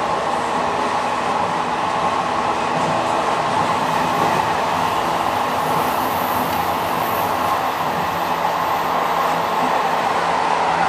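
A train running steadily, with a continuous rumble of wheels on the rails. A faint high whine sits over it for several seconds in the middle.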